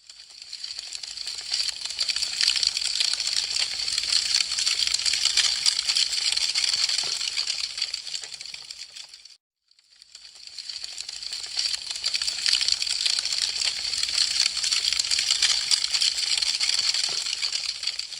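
Wood fire crackling with a dense, fast run of small pops and snaps. The sound fades out about nine seconds in, drops to a brief silence, and fades back in to repeat the same stretch.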